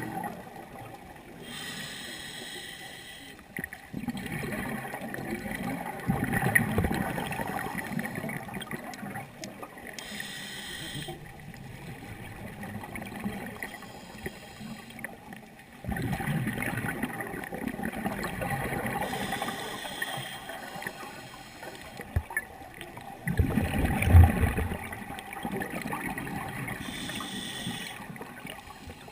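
Scuba diver breathing through a regulator underwater: a short hiss on each inhale, about four breaths in all, each followed by a longer low gurgling rush of exhaled bubbles.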